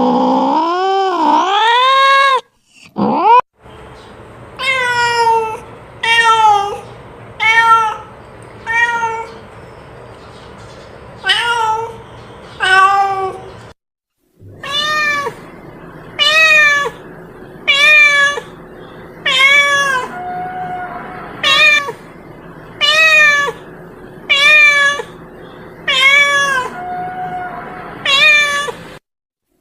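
Domestic cat meowing insistently: one long, wavering, drawn-out wail, then about fifteen short meows, roughly one every second and a half.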